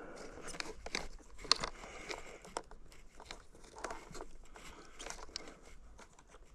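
Scattered small plastic clicks and rustles as a fuse is worked back into a fuse box by hand, fiddly work in a tight space.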